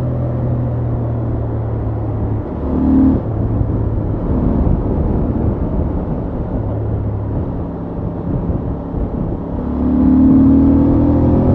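Honda XL750 Transalp's 755 cc parallel-twin engine running under way through its stock exhaust. It swells briefly about three seconds in and again near the end.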